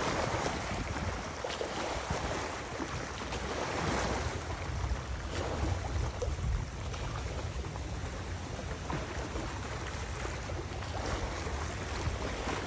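Wind gusting across the microphone, rumbling and rising and falling every few seconds, over the rush of river water.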